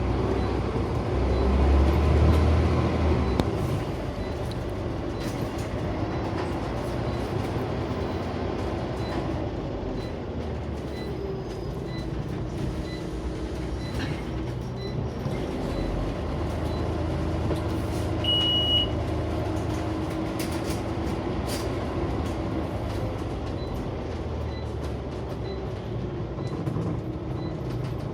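Scania OmniCity single-deck bus heard from inside the saloon on the move: the diesel engine running, its pitch rising and falling as the bus speeds up and changes gear, with a louder low rumble about two seconds in. One short high beep sounds about eighteen seconds in.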